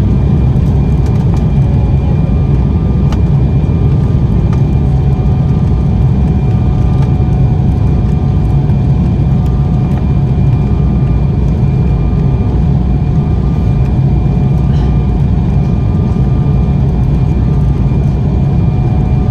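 Embraer 190 airliner cabin noise in flight: a steady, loud low rumble of engines and airflow with thin, even whines from the turbofans.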